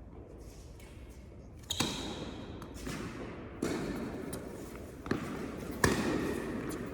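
Tennis rally: four sharp pops of a ball struck by rackets and bouncing on the court, irregularly spaced, each ringing briefly in a large indoor hall; the first, about two seconds in, is the loudest.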